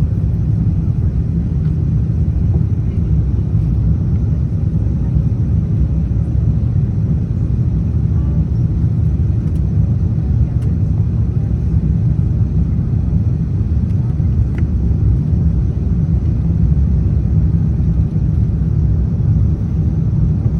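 Steady low rumble of an Airbus A350-900's cabin noise heard from a window seat: engine and airflow noise, with a few faint clicks.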